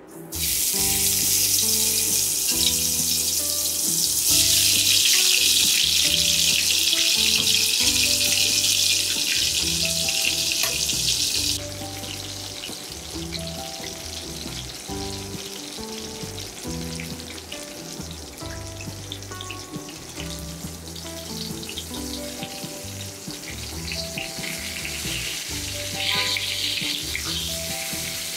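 Spice-coated eggplant pieces sizzling in hot oil in a stainless steel frying pan. The sizzle starts loudly as they go in, drops sharply about a third of the way through, and flares briefly near the end as the pieces are turned with a spatula.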